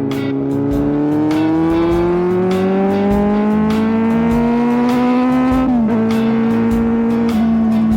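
Kawasaki Z750 inline-four with a de-catted LeoVince GT-Pro exhaust pulling in gear, its note rising slowly and steadily, then dropping at an upshift about six seconds in and holding steady. Music with a beat plays over it.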